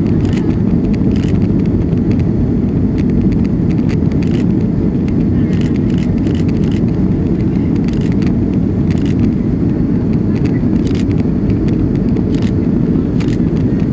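Steady low roar of an airliner's jet engines and airflow heard inside the passenger cabin during the climb, with scattered faint ticks over it.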